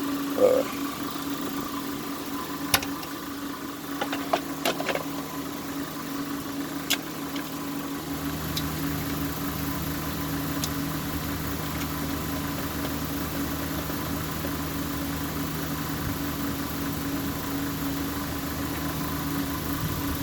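A steady machine hum, with a lower hum joining about eight seconds in, and a few sharp clicks and taps in the first half.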